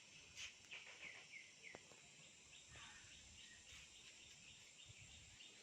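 Faint high chirps, each falling in pitch and repeating about twice a second, over near silence.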